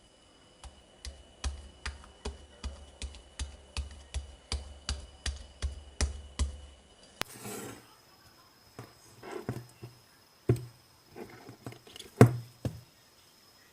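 White slime being pressed and poked by hand, giving a regular run of crisp clicks with soft low thuds, about two and a half a second. About seven seconds in, this breaks into irregular clicks and squishy pops, the loudest near the end.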